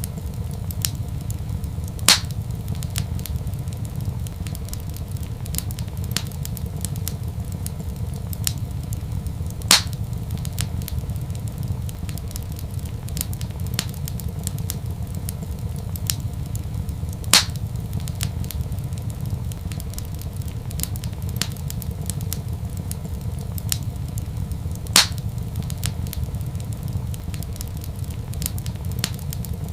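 Wood fire crackling in a fireplace: a steady low rumble under many small crackles, with four louder pops about seven and a half seconds apart.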